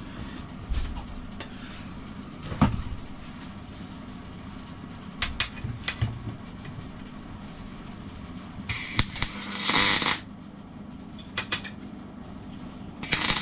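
Two short bursts of welding crackle as tack welds are struck on a sheet-steel repair panel, the first about nine seconds in and the second near the end. Before them come scattered knocks and clicks of metal being handled.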